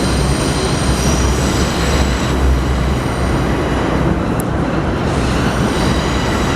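A train passing close by: a loud, steady rumble of wheels on the rails, with a thin high squeal from the wheels.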